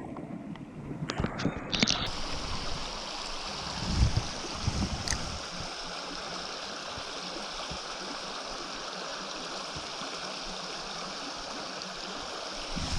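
Creek water running steadily, with a few low knocks and bumps in the first seconds.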